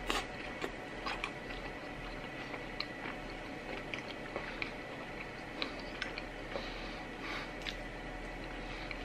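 A man chewing a mouthful of soft pistachio-cream-filled pastry close to the microphone, with scattered small wet clicks and smacks of the mouth.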